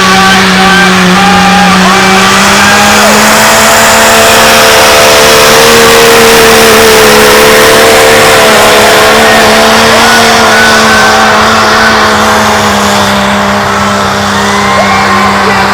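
Diesel pickup truck engine running flat out at high, nearly steady revs under heavy load, pulling the sled in a truck pull; the pitch wavers only slightly.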